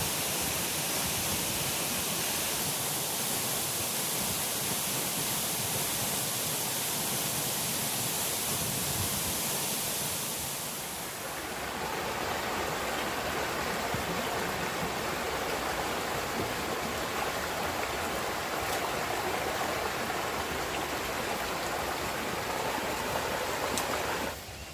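Steady rush of flowing water. About eleven seconds in its tone shifts from a brighter hiss to a fuller, mid-pitched rush, and the sound drops away abruptly near the end.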